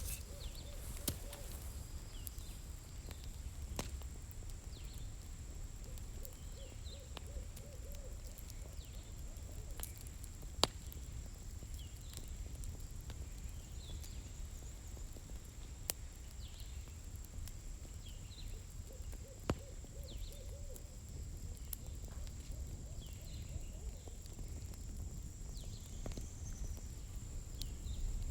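Campfire burning, with sparse sharp crackles and pops from the firewood, the loudest about ten seconds in, over a steady high-pitched whine and a low rumble.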